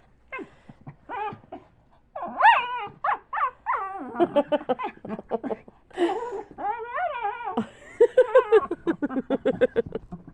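Dogs vocalizing in play: whines and play-growls with bending pitch, turning to a quick run of short yips near the end.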